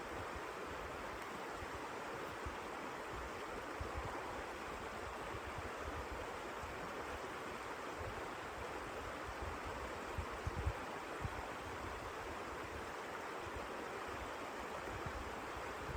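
Blizzard wind: a steady rushing hiss with uneven low buffeting and a slightly stronger gust about ten seconds in.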